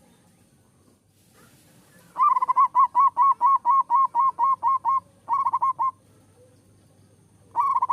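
Zebra dove singing: a quick run of about a dozen short, clear cooing notes, then a brief burst of four more, and another run beginning near the end.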